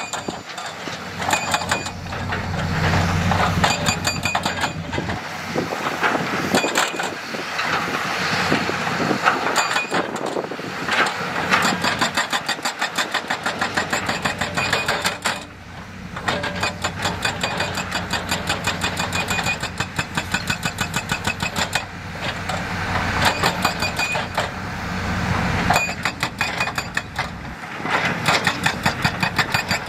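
Heavy construction machinery at work: engines running under rapid, repeated clanking and knocking, with a brief lull about halfway through.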